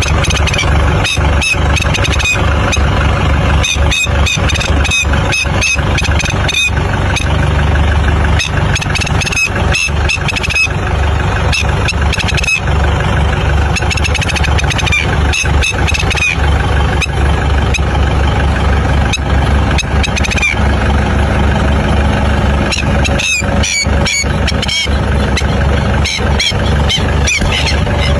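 Tractor engine running steadily with a rhythmic low knock. Over it, a black-winged stilt gives repeated short, high distress calls in bursts.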